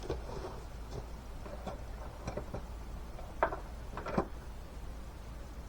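Scattered light clicks and two sharper knocks, about three and a half and four seconds in, from hands capping off a disconnected hose fitting on the engine, over a steady low hum.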